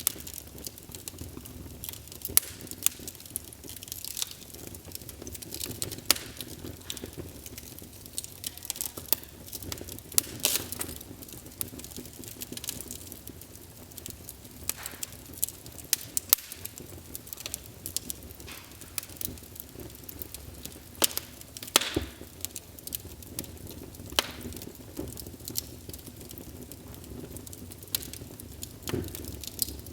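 Wood fire burning in a fireplace, crackling and popping irregularly over a low steady rumble of flame.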